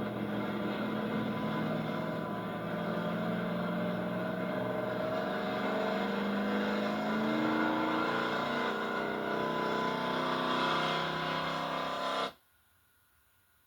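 Altered gas pulling truck's engine running at high revs under load, its pitch climbing slowly through the middle of the run. The sound cuts off abruptly near the end.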